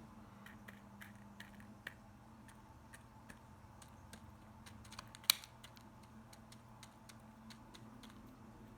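Laughing dove pecking at small seeds: irregular light taps and clicks, a few a second, with one louder tap about five seconds in.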